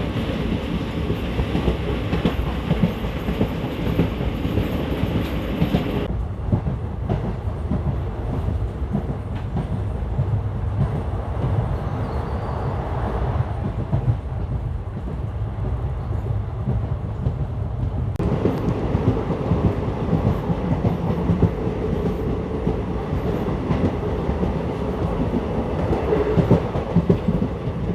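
A passenger train running at speed: wheels clattering over the rail joints, with the steady rumble of the coach. The sound turns duller for about twelve seconds in the middle.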